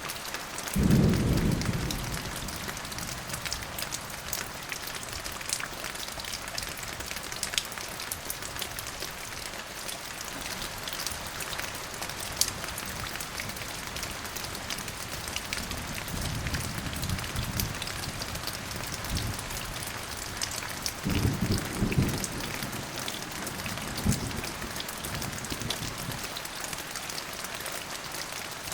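Steady rain falling and pattering on a surface, with rolls of thunder: a strong clap about a second in, then softer rumbles near the middle and again at about 21 and 24 seconds.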